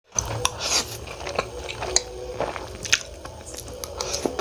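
A person chewing and biting food close to the microphone, with wet mouth clicks and smacks coming irregularly, several a second.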